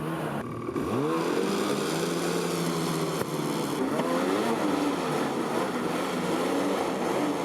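Snowmobile engine running, rising in pitch about a second in and changing pitch again around four seconds in as it is revved.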